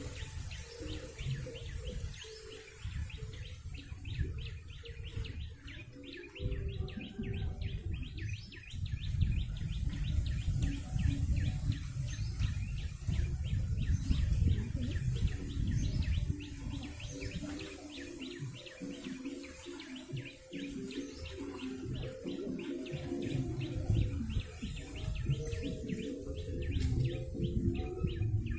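A prenjak (prinia) chirping: a long run of rapid, evenly repeated high chirps, used as the call in bird-luring. A heavy low rumble runs underneath.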